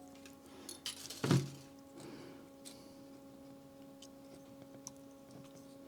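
Small parts and tools being handled on a workbench: a couple of light clicks and one louder thump about a second in, then a few faint ticks, over a steady electrical hum.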